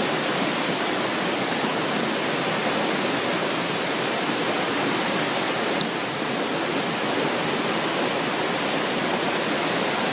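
River water rushing past in a steady, even wash of noise, with one short sharp click about six seconds in.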